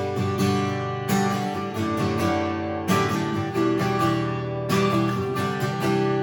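Worship band playing an instrumental interlude led by strummed acoustic guitar, with chords changing every couple of seconds and no singing.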